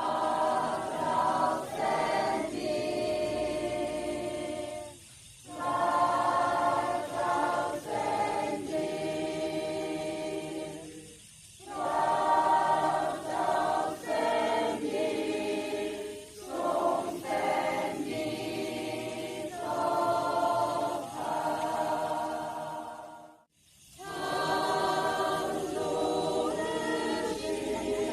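A group of voices singing a praise song in Thai, in phrases broken by short pauses.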